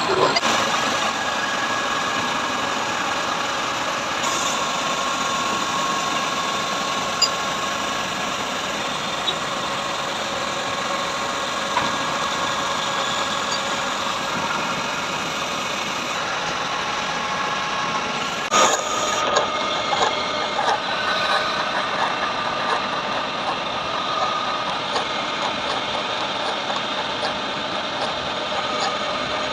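Heavy CNC machine tool running and cutting metal: a steady mechanical whir with several steady high tones over a noisy hiss. The sound changes abruptly about two-thirds of the way in, after which small clicks and knocks come through.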